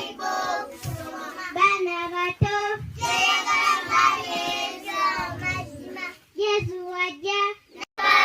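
Children singing, with held and gliding notes and a brief break just before the end.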